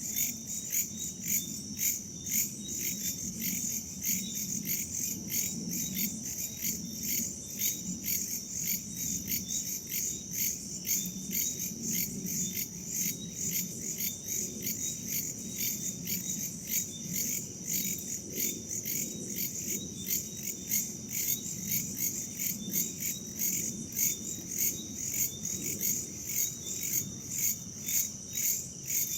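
Crickets and other night insects chirping in a dense chorus, pulsing about twice a second, with a fainter second insect trill beneath and a low steady rumble of wind.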